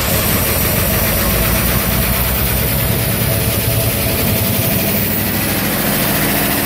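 1968 Ford Bronco's V8 engine running steadily on a new FiTech Go Street throttle-body fuel injection, moments after catching on its first start in over ten years.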